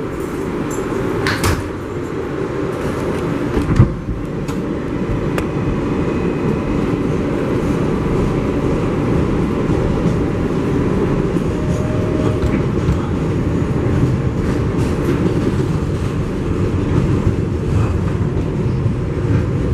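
An R188 subway car on the 7 line running along the track, a steady rumble of wheels and running gear, with a sharp clack about four seconds in.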